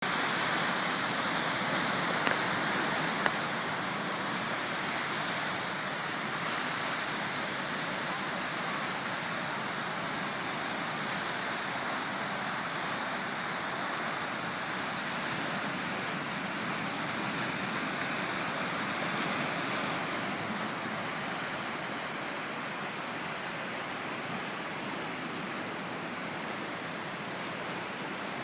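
River water rushing swiftly out of the outlet tube of Saylorville Dam and churning downstream: a steady, unbroken rush that eases slightly over time. Two small clicks are heard near the start.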